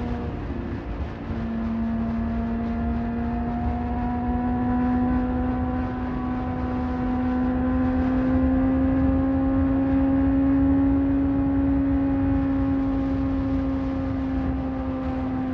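Honda CBR600RR's inline-four engine running under way, over a low rush of wind and road noise. About a second in, the note breaks briefly, as at a gear change, then comes back lower and rises steadily as the bike pulls, levelling off near the end.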